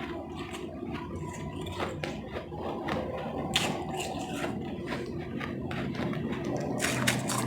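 Close-up chewing and crunching of powdery ice chips: a run of irregular crunches, with a louder burst of crunching near the end.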